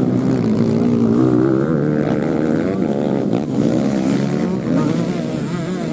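Several motocross bike engines revving on a dirt track, their pitch rising and falling as the riders work the throttle, with one engine climbing in pitch a second or two in.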